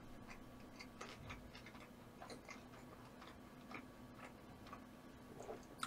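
Faint, irregular soft clicks of a person chewing food with the mouth close to the microphone, over a low steady hum.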